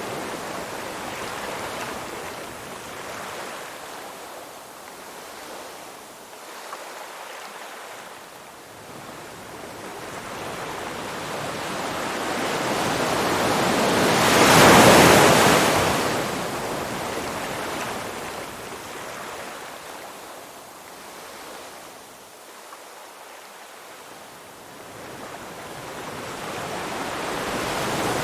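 Ocean waves washing ashore in slow surges: one wave swells to a peak about halfway through and dies away, and another builds near the end.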